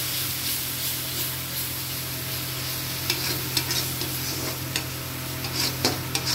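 Onion, ginger-garlic and spice masala sizzling in oil in a kadhai as a metal spatula stirs and scrapes it, the frying-down (bhunao) stage of a chole gravy. The sizzle is steady, with sharper scrapes of the spatula against the pan coming more often in the second half.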